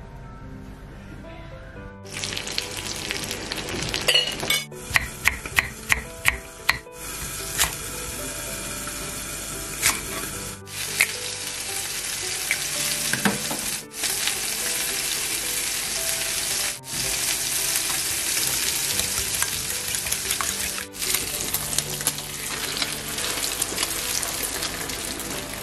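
Beaten egg and shallots frying in hot oil in a pan for a Thai-style omelette, giving a loud steady sizzle as a wooden spatula stirs it. About six sharp clicks come a few seconds in. Soft background music runs underneath and is heard alone for the first two seconds.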